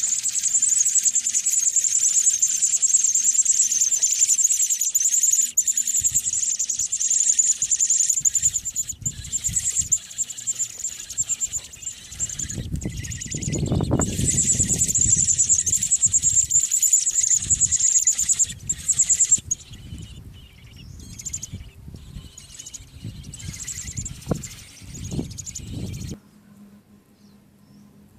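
A chorus of American robin nestlings begging with rapid high-pitched peeps, which weaken after about two-thirds of the way through and cut off suddenly near the end. Low thumps and rustling break in midway and again later.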